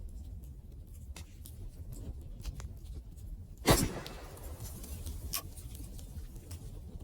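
Wood fire burning: scattered small crackles and snaps over a low rumble, with one loud pop just past halfway and a smaller crack about a second and a half later.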